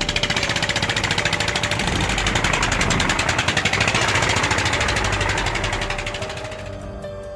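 Tractor engine running with a steady rapid pulse, fading out near the end.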